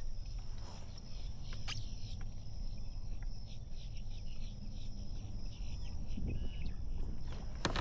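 Insects droning in a steady high buzz, with a quick run of repeated chirps through the middle, over a constant low rumble; a single sharp click about two seconds in.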